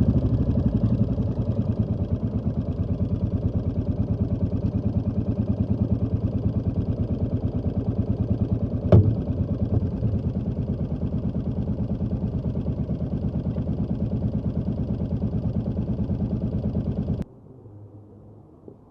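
Royal Enfield Classic 350 single-cylinder engine idling with an even, steady beat and one sharp click about halfway through. The engine cuts off suddenly near the end, leaving only a faint hiss.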